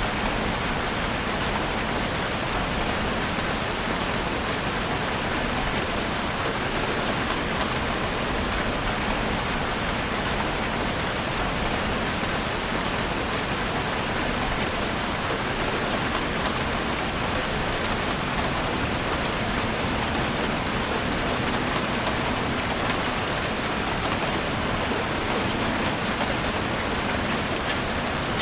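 Heavy rain drumming steadily on a roof, a dense even patter with fine drop ticks throughout.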